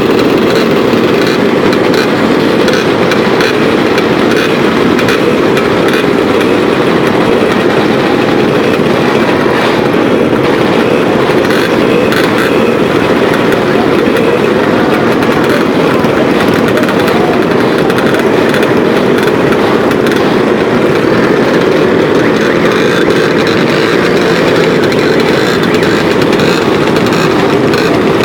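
Motorcycle engines running at a gathering, a loud, steady, dense noise with no breaks.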